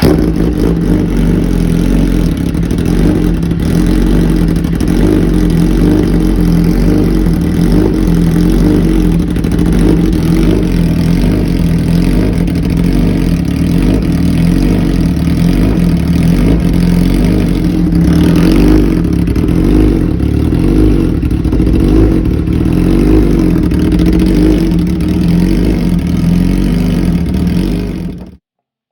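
Suzuki GSX-R 1000 K7 inline-four running steadily at idle through a newly fitted Racefit Black Edition exhaust, on its first startup with the new system. The sound cuts off abruptly near the end.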